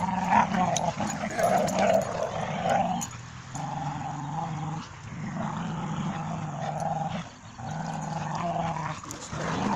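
Dogs growling during a play tug-of-war over a toy, in long steady growls that break off briefly every couple of seconds.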